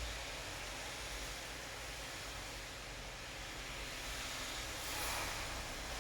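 Steady rain falling, an even hiss with a low rumble underneath, swelling briefly louder about five seconds in.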